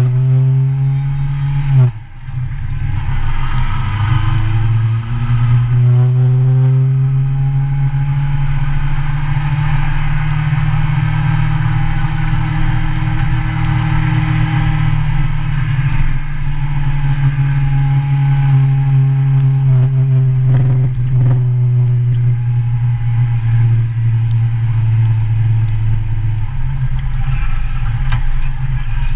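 Motorcycle engine running under way, its pitch rising and falling as the bike speeds up and slows. The sound drops out briefly about two seconds in, then climbs again, and the engine note falls near the end.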